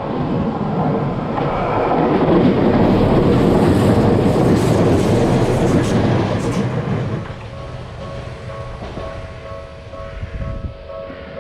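A train passes a railroad crossing: a loud rush of wheel and rail noise swells and then dies away about seven seconds in, while the crossing's alarm bell keeps ringing steadily and is heard plainly again once the train has gone.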